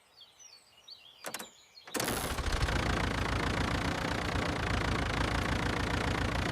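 A loud, steady rumble with a fast low pulse starts suddenly about two seconds in, after a near-quiet start broken by a couple of faint clicks.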